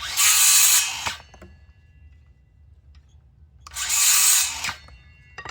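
Power drill run in two short bursts of about a second each, roughly three seconds apart, with a sharp knock at the very end.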